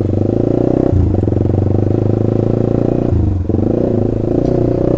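Honda CBR150R's single-cylinder four-stroke engine running through a loud Austin Racing aftermarket racing exhaust, with a steady note that breaks off briefly about one second in and again about three seconds in.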